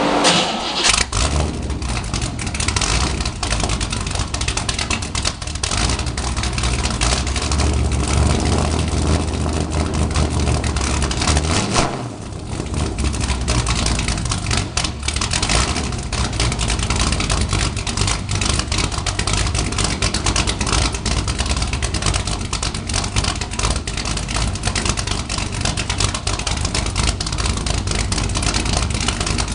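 Corvette engine with straight-piped exhaust on a cold start: it catches in the first second and then runs loud through the open pipes. There is a brief drop in level about twelve seconds in, then steady running.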